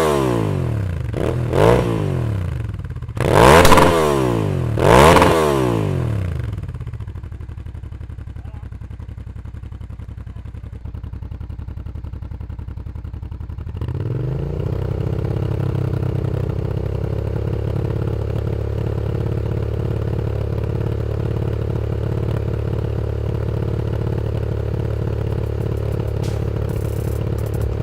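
Suzuki SV650 S's 645 cc V-twin through an Ixil slip-on exhaust, blipped sharply four times, each rev falling straight back, then settling to idle. About halfway through, a louder, steady engine note takes over and holds to the end.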